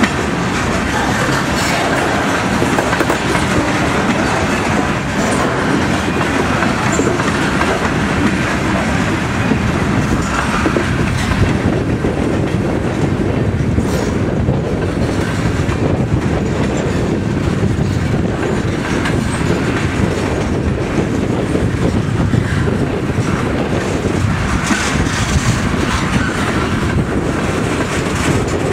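Cars of a Huron & Eastern freight train rolling past close by: a steady, even noise of steel wheels running on the rails, with no letup.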